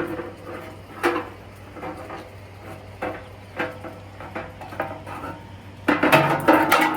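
Sheet-metal blower assembly of an HVAC unit being worked loose and pulled from its housing: scattered metal clinks and knocks about once a second, then a burst of louder clattering near the end as it comes free.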